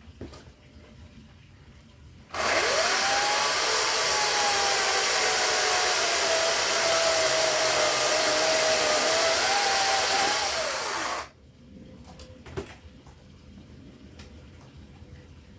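Chainsaw cutting firewood: the motor runs up quickly, its pitch sags and wavers as the chain bites into the wood, rises again as it cuts through, and winds down after about nine seconds. A sharp knock follows about a second later.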